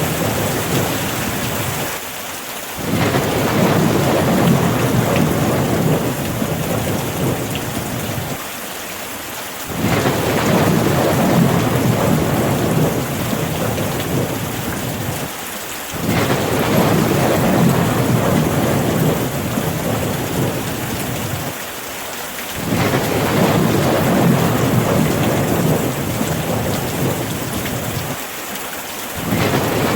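Steady heavy rain with a low rumble underneath that swells and fades back about every six and a half seconds.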